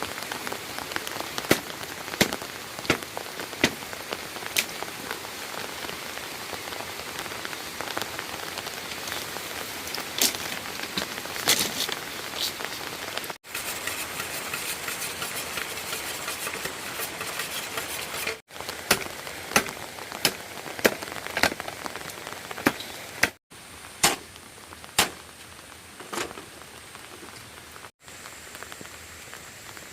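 Rain falling steadily, with loud individual drops striking close by every second or so. The sound breaks off abruptly several times, a few seconds apart.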